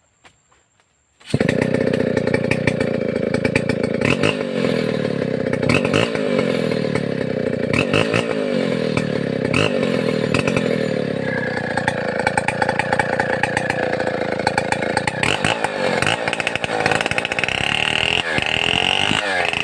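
Stihl 070 two-stroke chainsaw running loud, starting about a second in, its engine note dipping and recovering about every two seconds as it saws through a mahogany log, with a higher whine near the end.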